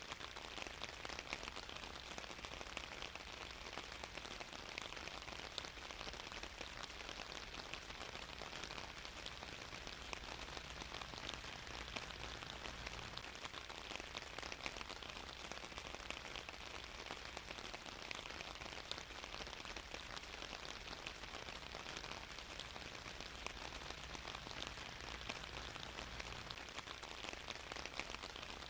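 Steady rain falling and pattering on a surface, a dense even hiss of many small drop ticks.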